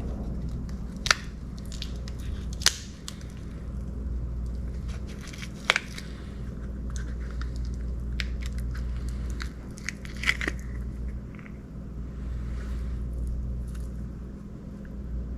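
A few sharp clicks and clinks of hand tools and metal parts being handled while an outboard motor is taken apart, over a steady low hum.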